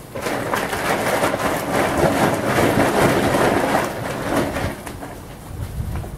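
Thunder rumbling through steady rain: a rolling crash that swells suddenly, peaks a couple of seconds in and fades after about four seconds, with a lower rumble near the end.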